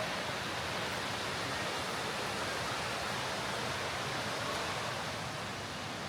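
Rushing water, a steady even hiss with no change in level.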